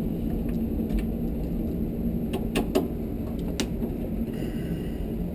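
A screwdriver backing out small sheet-metal screws from a water heater's housing: scattered short metallic clicks and ticks over a steady low hum.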